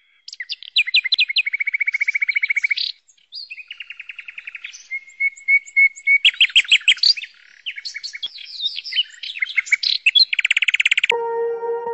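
Songbirds chirping and singing in fast trills of rapidly repeated notes, several overlapping. About eleven seconds in they cut off suddenly and music with sustained, ringing tones begins.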